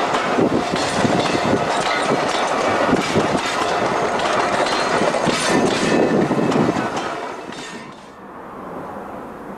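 Passenger coaches of a passing train rolling by close, their wheels clattering over the rail joints in a steady run of knocks. The noise drops away sharply near the end.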